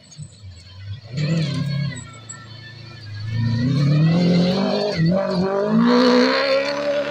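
Off-road rally car's engine accelerating, its pitch climbing steadily from about three seconds in, with a short break in the sound about five seconds in before it pulls on higher.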